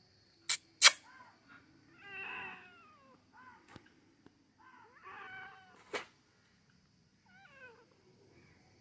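Cats meowing: short calls that bend in pitch, the fullest ones about two seconds in and again about five seconds in, with smaller mews between and near the end. Two loud sharp clicks come about half a second in and another about six seconds in.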